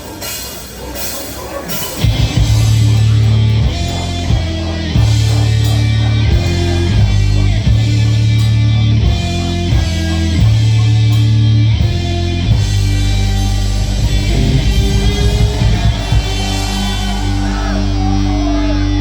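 Live rock band playing with electric guitars, bass and drum kit. It starts softer, and the full band comes in loud about two seconds in with a stop-start riff of low notes in short blocks.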